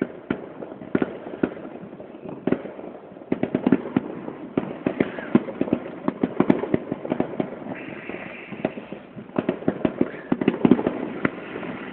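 Fireworks going off in many sharp cracks and pops, scattered at first and then a dense, rapid crackle from about three seconds in.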